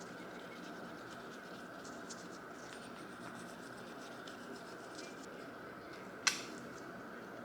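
Light scratching and rubbing over a steady hum, with one sharp click about six seconds in.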